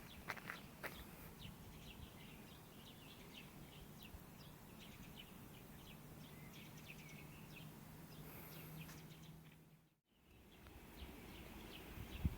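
Faint birds chirping in short repeated calls over a quiet background, with a faint low hum in the middle and a brief total dropout near the end.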